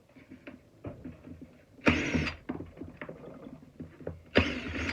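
Power driver with a Torx bit backing screws out of a plastic shop vac housing: two short bursts of running, with small clicks and handling knocks between.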